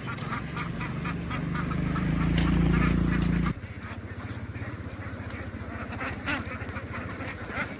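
A large flock of domestic ducks quacking continuously. Under the quacking is a low engine hum that builds louder, then drops off abruptly about three and a half seconds in.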